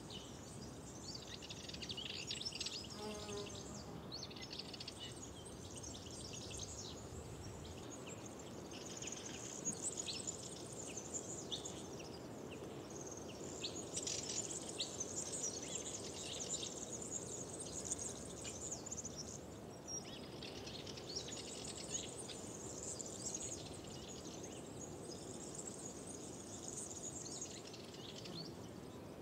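Spring woodland chorus of many small birds chirping and trilling over each other without pause, over a soft steady background hiss.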